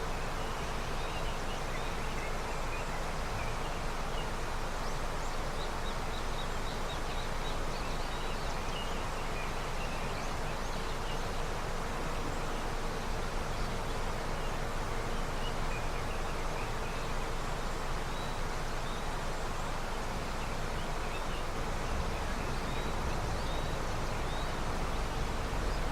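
A river in early snowmelt flowing steadily, with faint short bird chirps scattered through.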